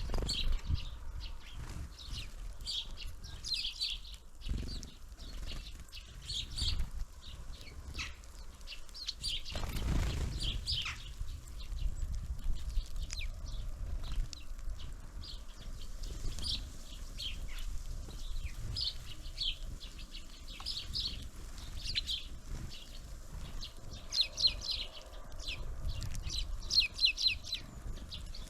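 Small songbirds at a winter bird feeder calling in quick clusters of short, high chirps, with wingbeats and low thumps as birds come and go. There is a brief rush of noise about ten seconds in.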